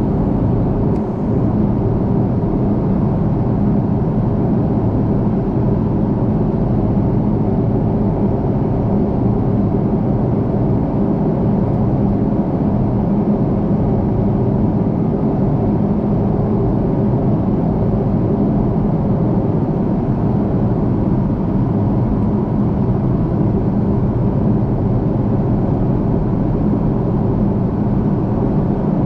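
Steady cabin noise inside an Airbus A330-300: a low, unchanging drone from its Rolls-Royce Trent 700 engines and the airflow around the fuselage.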